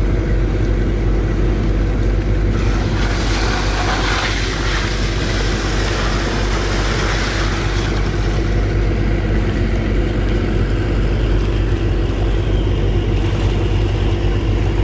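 Engine of a sand-pumping boat running steadily under load, driving the pump as it sucks up a very thick sand slurry. A rushing hiss swells over it from about two and a half seconds in and fades a few seconds later.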